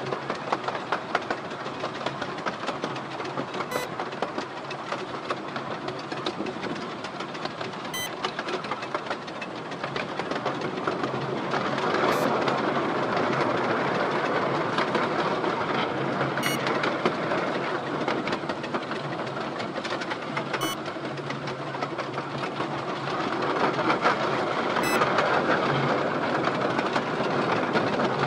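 Miniature railway train running along the track, heard from a carriage just behind the locomotive: a steady rolling rumble with a faint click about every four seconds, getting louder about twelve seconds in.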